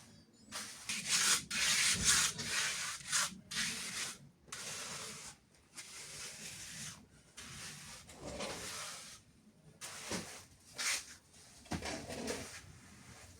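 A hand trowel scraping and smoothing wet cement mortar on a floor: a run of irregular rasping strokes, each under a second, with short pauses between them.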